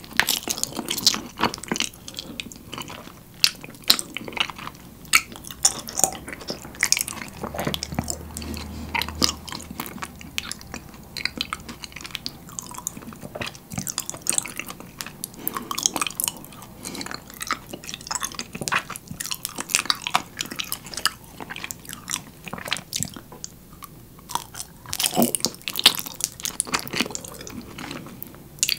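Close-miked biting and chewing of raw honeycomb: a continuous run of sharp, crackling clicks as the wax comb is crushed, with a louder patch of crunching about 25 seconds in.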